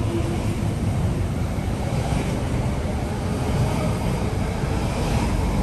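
MTR East Rail Line R-Train electric multiple unit pulling out of the station, its cars rolling past close by with a steady rumble.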